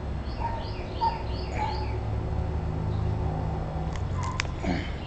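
A small bird chirping: a quick run of about six short, repeated chirps in the first two seconds and another run starting just after four seconds. A few sharp clicks come about four seconds in, over a steady low rumble.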